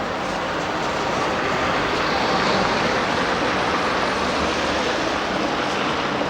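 Street traffic: a steady rushing noise of passing vehicles, swelling a little midway and then easing.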